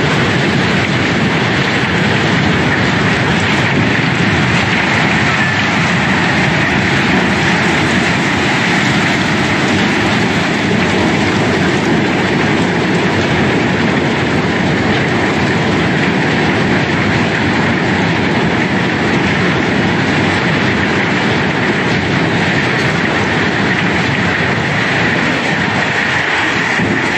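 Cobblestones pouring out of a barge during unloading, a dense steady rattling clatter of many rocks knocking against each other.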